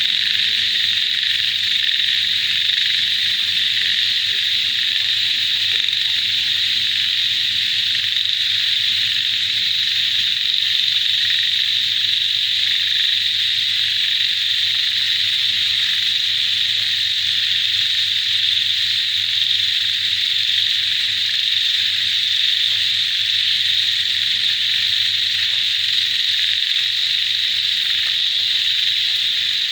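Dense chorus of frogs and insects: a steady, high-pitched, unbroken drone with no pauses.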